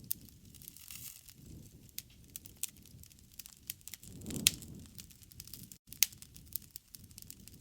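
Wood campfire crackling, with sharp pops scattered through it, the loudest about four and a half seconds in, over a soft low rush that swells at that moment.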